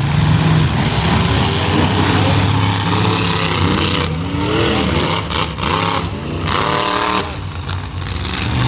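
Monster truck engines running loud, revved up and down several times in the middle.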